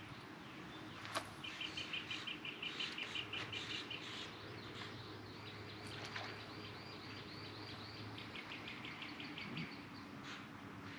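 Songbirds singing: a quick run of repeated high chirps, then a long series of evenly repeated notes, with a single sharp click about a second in.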